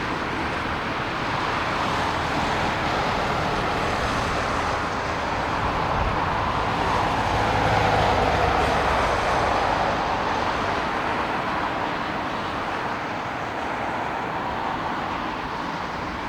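Jet engine noise from an aircraft on the airfield, swelling to a peak about halfway through and then slowly fading as it passes.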